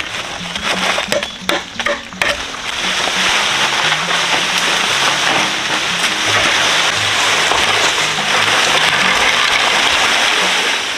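Background music, with a few sharp knocks in the first two seconds. Then a steady rush of splashing water starts and keeps going.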